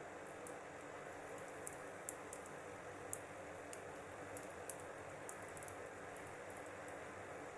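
Wood fire burning with a steady low hiss and irregular sharp crackles and pops, the loudest about three seconds in and a quick cluster near the end.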